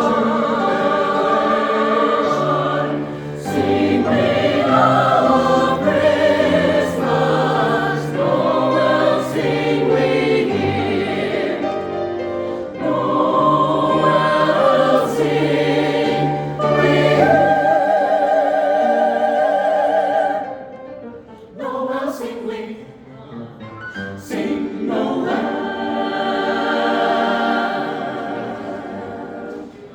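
Choir singing sustained notes with vibrato over low held notes; the low notes stop about halfway through, and the singing turns softer and more broken up for the last third, tailing off near the end.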